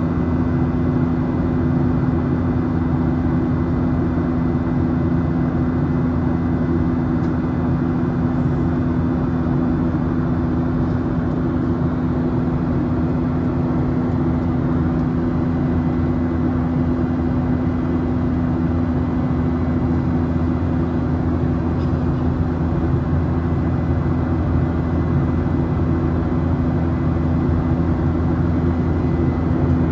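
Boeing 737 cabin noise heard from a window seat in flight: a steady drone of the jet engines and rushing airflow, with a constant low hum.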